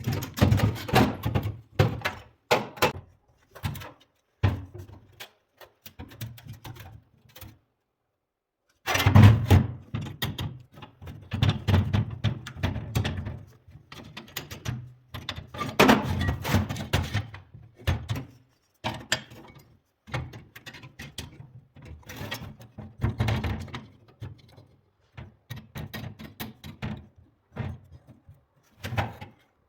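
Irregular knocks and clatter in quick runs, stopping for about a second and a half partway through.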